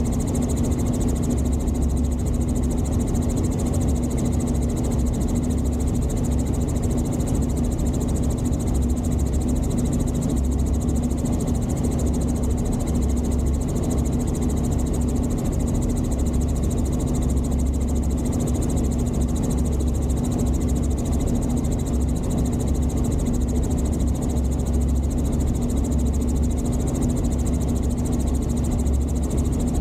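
Helicopter engine and rotor running steadily in flight, a constant drone with a deep rumble and a steady hum.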